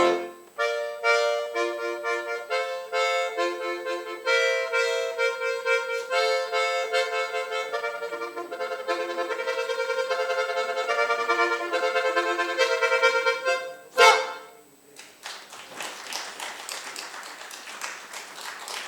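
Accordion playing a brisk run of chords and melody. It ends about fourteen seconds in on one sharp, loud accented chord, and applause follows.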